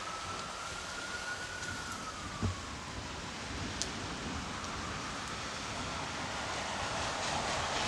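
Steady rain falling. A faint siren wails over it with a slow rise and fall, and there is one dull thump about two and a half seconds in.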